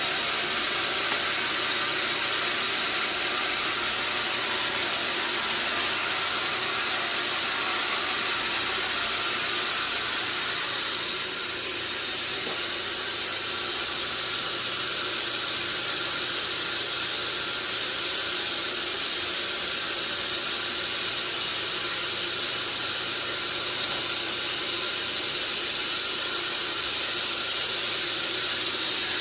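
Sawmill saw running steadily: a loud, even, hissing machine noise with a few faint steady tones, dipping only slightly about a third of the way in.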